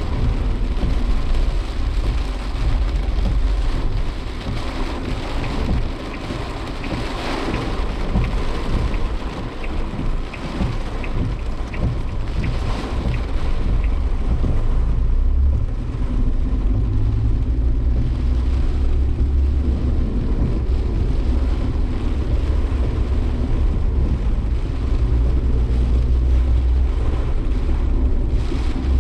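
Interior noise of a Suzuki Jimny Sierra being driven in typhoon rain. A heavy low engine and road rumble runs under rain beating on the car body. It settles into a steadier drone about halfway through.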